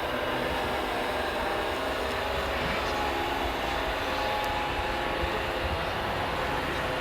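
Radio-controlled model construction machines running: a steady mechanical whir of small electric motors and gearing, with several thin whines that drift slowly in pitch over a low rumble.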